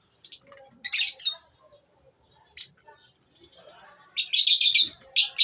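Lovebirds giving shrill, high chirps: a few single calls, then a quick run of about eight chirps near the end.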